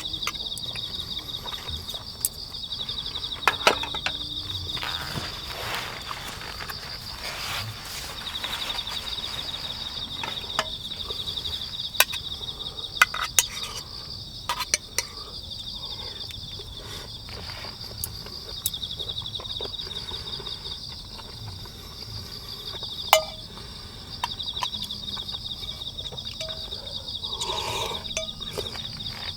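Crickets chirping steadily in a fast, unbroken pulse, with scattered sharp clicks and taps from time to time.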